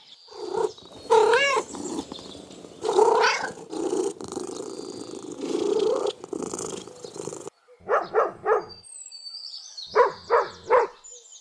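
Domestic cat vocalizing with long drawn-out meows over a continuous low rumble of purring. About two-thirds of the way in, it cuts off abruptly, and short sharp animal calls follow in quick sets of three.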